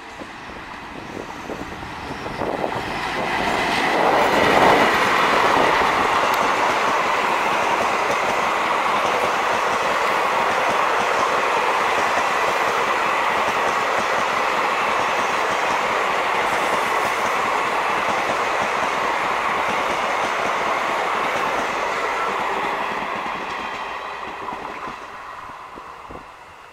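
A passenger train hauled by an ALCO WDM-3A diesel locomotive, with its 16-cylinder engine, passes at speed without stopping. The sound swells to its loudest as the locomotive goes by about four to five seconds in. The coaches' wheels then run past on the rails, loud and steady, and the sound fades away near the end.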